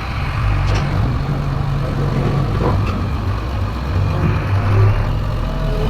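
Heavy diesel engine of earth-moving machinery running steadily, with a couple of faint knocks.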